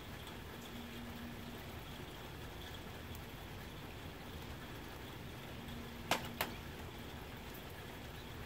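Soft rain falling steadily on a tin roof, with two sharp taps close together about six seconds in.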